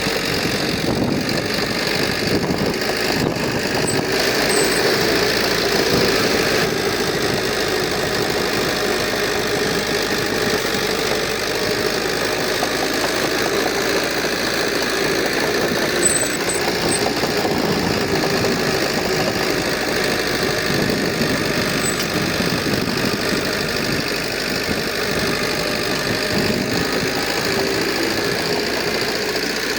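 Heavy earthmoving machinery's diesel engine running steadily with a knocking note.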